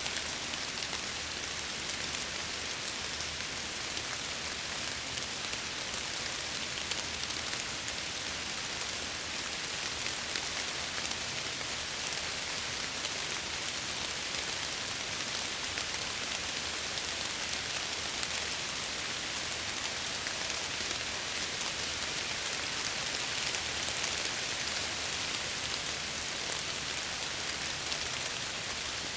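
Steady rain falling, with the patter of drops against window glass.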